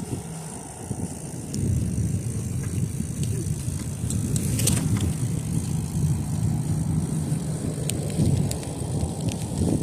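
Bicycle rolling along a trail: a steady rumble of the tyres and drivetrain that grows louder about a second and a half in, with a few light clicks.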